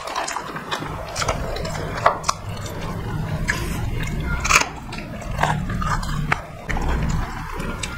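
Two people chewing and eating rice and curry with their hands, with wet mouth smacks and clicks scattered throughout.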